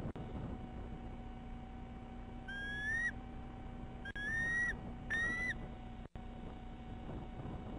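A bird calling three separate high whistled notes about a second apart, each one rising in pitch.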